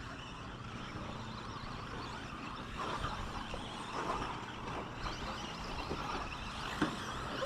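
Radio-controlled 2WD short course trucks racing on a track: a steady mix of motor whine and tyre noise, with a sharp knock near the end.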